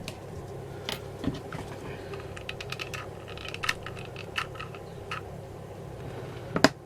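Scattered light clicks and taps of small craft items being handled and set down on a work surface, with one sharper click near the end.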